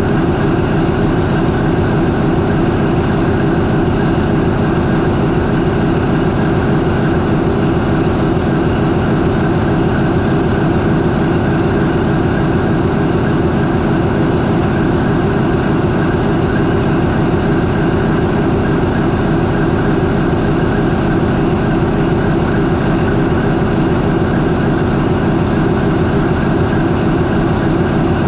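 MAN 20V28/33D STC twenty-cylinder marine diesel main engine of a high-speed ferry running steadily at idle, about 400 RPM. The sound is loud and even, with no change in speed.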